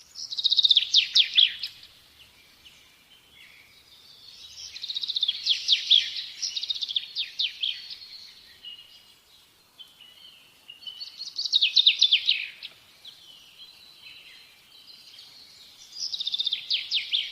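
A songbird singing in four loud bursts of fast trills and chirps, each one to three seconds long, with fainter chirping between them.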